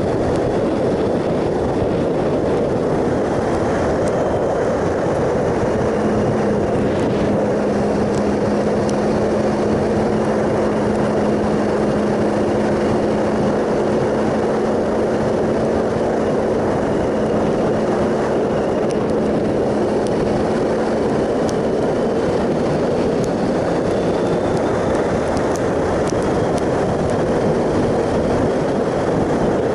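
Triumph Sprint ST 1050's three-cylinder engine cruising at a steady speed under a constant rush of wind noise. The engine note holds one pitch for a long stretch in the middle.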